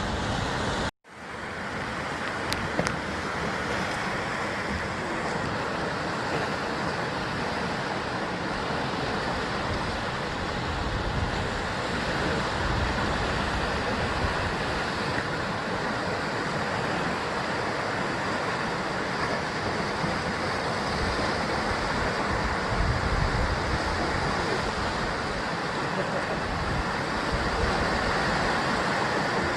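Sea waves washing and breaking against a basalt cliff coast: a steady rushing surf with low wind rumble on the microphone. About a second in, the sound cuts out suddenly for a moment and then swells back in.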